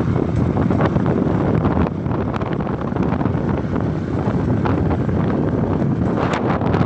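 Wind buffeting the microphone on a moving motorcycle, with the bike's engine and road noise underneath, steady and loud.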